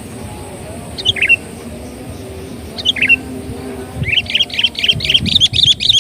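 Sooty-headed bulbul (kutilang) calling: two short falling notes about two seconds apart, then a fast, chattering run of notes from about four seconds in.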